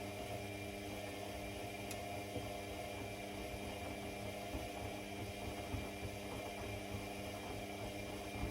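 Steady electrical hum of a small mains-powered motor running, cutting off right at the end.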